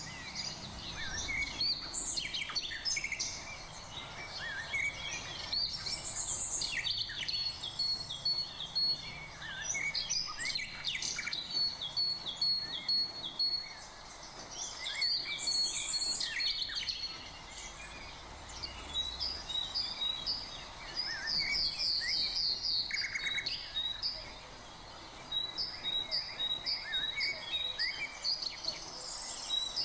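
Several birds chirping and calling, with many short high chirps and repeated notes. In the second half there is a fast trill and then a run of evenly repeated notes.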